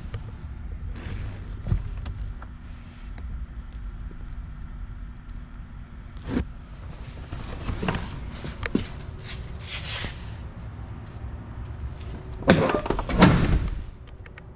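Scattered clicks and knocks over a low steady rumble, with a loud burst of clunks near the end.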